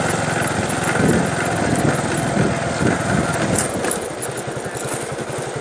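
A small engine running steadily, with a regular pulsing beat near the end.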